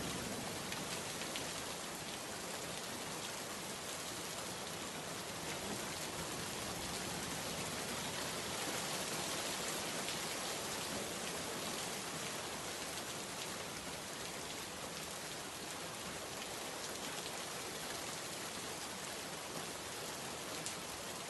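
Heavy rain falling, a steady dense hiss with faint scattered drop ticks.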